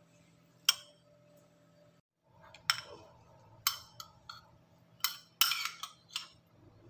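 Sharp clinks and knocks of kitchenware being handled, about eight in all, coming singly and in a quick cluster near the end, over a faint steady hum.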